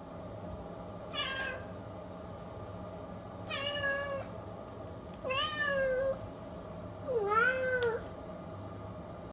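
Domestic cat meowing four times, a second or two apart, the later meows longer and the last one dipping and rising in pitch.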